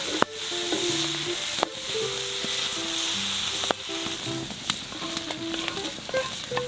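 Food sizzling as it fries in a pan, with a few sharp clicks, over soft background music.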